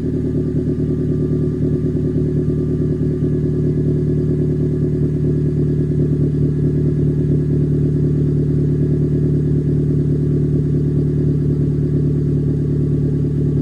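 Suzuki Swift Sport ZC31's 1.6-litre four-cylinder idling steadily after a cold start, its note coming through a Greddy Beatmax Ti aftermarket exhaust.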